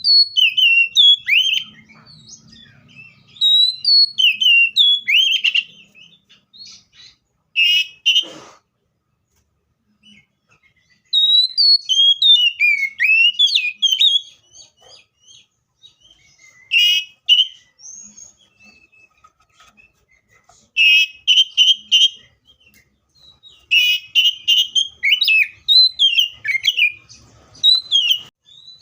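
Seychelles magpie-robin singing: loud bouts of quick, varied whistled and chirping phrases, broken by short pauses. A single sharp click sounds about eight seconds in.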